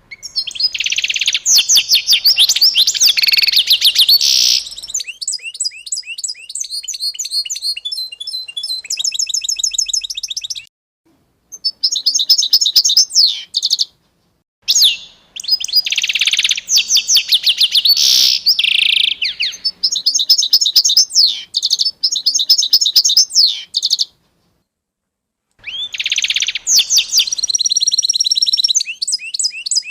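A songbird singing in long bouts of rapid trills and whistled notes, several bouts broken off by short spells of complete silence.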